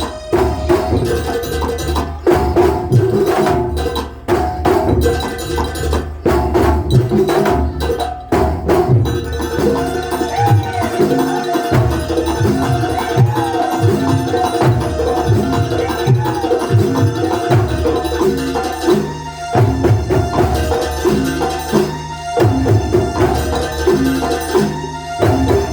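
Live kuntulan music: a traditional Banyuwangi ensemble with drums beating a dense, driving rhythm under a melody line.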